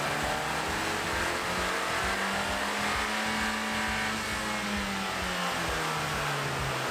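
Turbocharged 1.5-litre four-cylinder of a stock 2020 Honda Civic Si running on a chassis dyno: the engine note climbs for the first half, then winds back down. A steady rush of air runs underneath.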